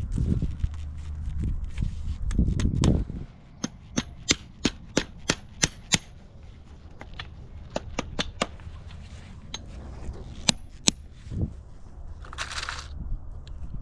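A run of about eight sharp metallic taps, evenly spaced at about three a second, then a few scattered clicks.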